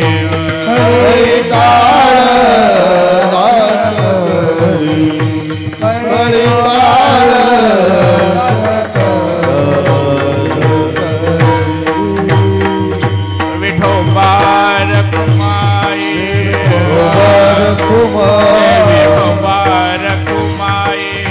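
Devotional kirtan music: a singer's drawn-out melodic line gliding up and down over a steady rhythm of drum strokes.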